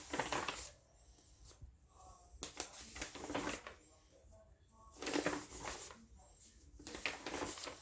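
Pages of a paper colouring book being turned and handled: several separate rustling sweeps with short pauses between them.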